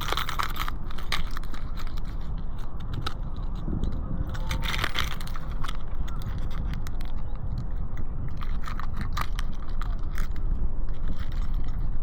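Strong wind buffeting the microphone as a steady low rumble, with irregular clicks, scrapes and crackles of close handling on top, busiest about four to five seconds in.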